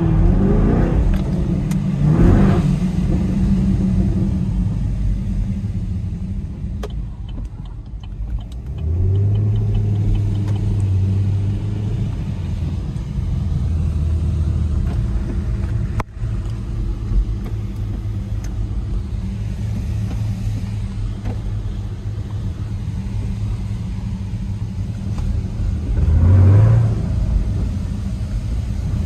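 Chevrolet Camaro SS's V8 engine revving up in the first seconds, then running steadily at cruise, and revving again briefly shortly before the end.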